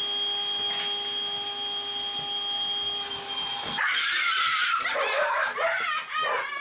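A steady whirring hum that sounds just like a vacuum cleaner but is not one; it cuts off suddenly just under four seconds in. High, wavering cries follow.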